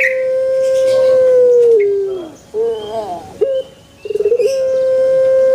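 Male puter (Barbary dove) cooing. Each call is a short wavering note followed by a long, steady coo held nearly two seconds that drops in pitch at its end. The call comes twice, about four seconds apart.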